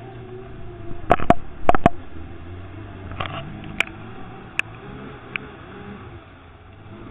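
Lada Niva's engine running with a low, steady hum while the car wades slowly through deep muddy water. About a second in come four sharp knocks close together, then a few lighter clicks.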